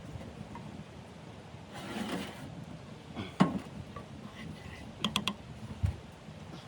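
Handling sounds: a single sharp click, then a quick run of three or four clicks, then a dull thump, over a steady background hiss.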